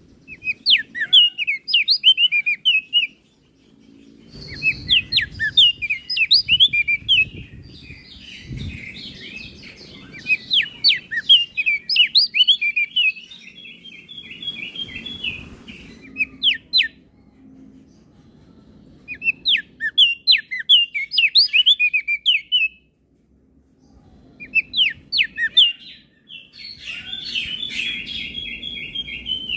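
Flores crested white-eye singing in rapid, twittering phrases of sharp chirps, broken by short pauses, with a buzzy trill near the end.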